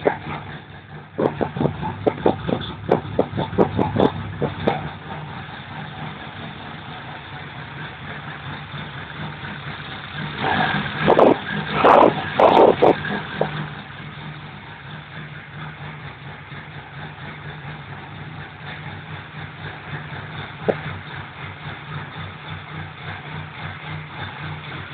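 Škoda Felicia engine running at idle, a steady hum, with a louder stretch for a few seconds about halfway through.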